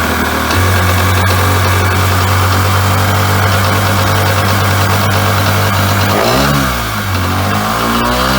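Wetjet Duo jet ski's 701 cc two-stroke twin running steadily at idle out of the water, then revving up and dropping back briefly about six seconds in and again near the end.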